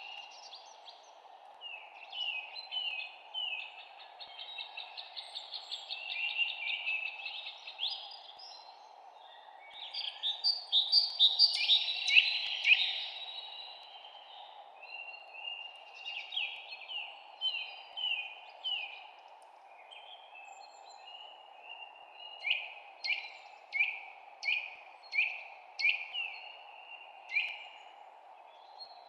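Songbirds chirping and singing over a steady low hiss. The song is densest and loudest about ten to thirteen seconds in. Near the end comes a run of evenly spaced chirps, each falling in pitch.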